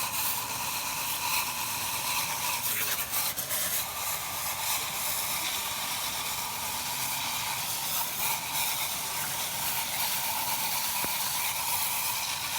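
Steady, hissing spray, the sound of engine parts being cleaned with a jet of water or air.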